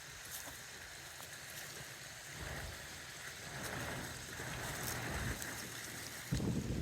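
Strong gusty wind buffeting the microphone over a steady hiss, picking up about two and a half seconds in and gusting hard near the end.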